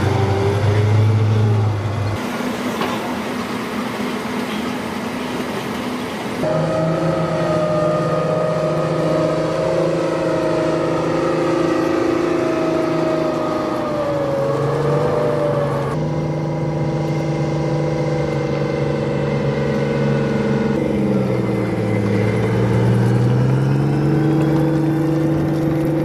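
Diesel engines of Bradley armored fighting vehicles running, in several spliced shots, so the engine sound changes abruptly a few times. The engine pitch dips and recovers about two-thirds of the way in, then drops and rises again near the end as the throttle changes.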